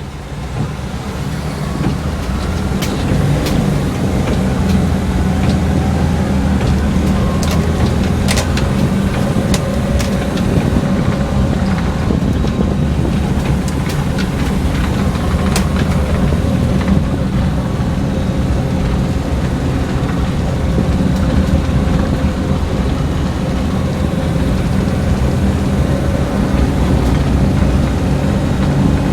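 1996 Toyota Kijang Super SX's 7K petrol four-cylinder engine running on the move, with road noise; it gets louder over the first couple of seconds, then holds steady.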